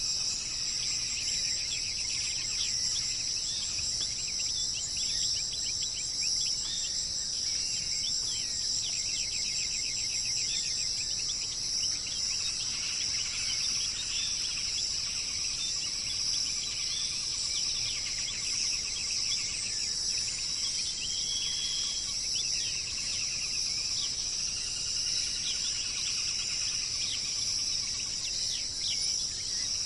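A steady, high-pitched insect chorus, like crickets, with birds chirping and giving rapid trills over it.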